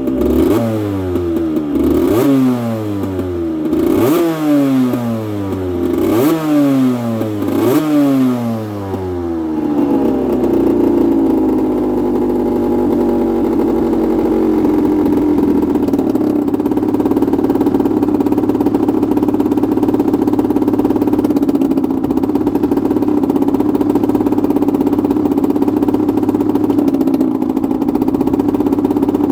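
Aprilia RS125's 125 cc single-cylinder two-stroke engine being revved with repeated quick throttle blips, about seven in all. Each rev rises sharply and falls away. About ten seconds in it settles into a steady idle.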